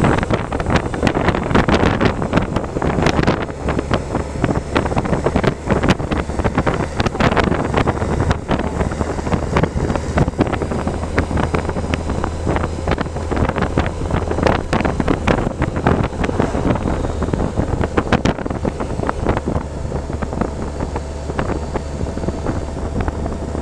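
Wind buffeting the microphone while riding, a rough rushing noise full of crackles, over a steady low drone.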